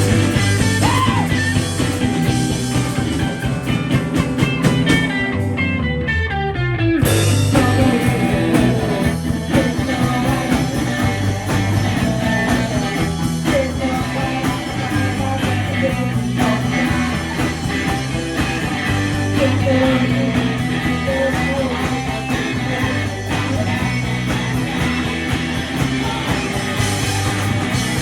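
Live rock band playing electric guitar, bass and drums. About seven seconds in, after a falling slide, the sound fills out with cymbals and a fuller band.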